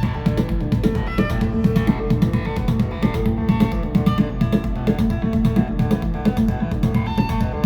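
Eurorack modular synthesizer patch: a Noise Engineering Basimilus Iteritas Alter drum voice plays a fast, busy rhythm under a plucked-sounding melodic sequence from a Manis Iteritas oscillator, through a Polaris filter and Monsoon reverb.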